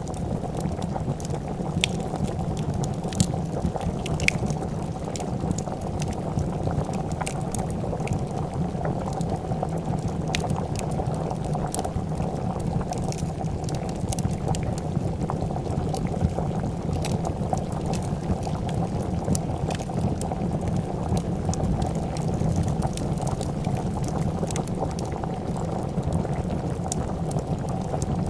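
Pot of soup boiling with a steady low bubbling, over which a wood fire crackles in scattered sharp pops.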